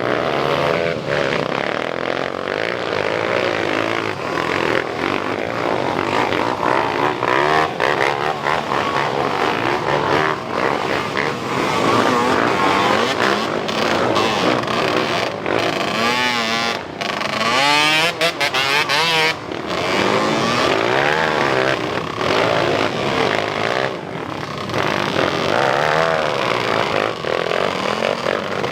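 Motocross dirt bike engines revving hard, several bikes at once, their pitch repeatedly rising and falling as they power up the climb.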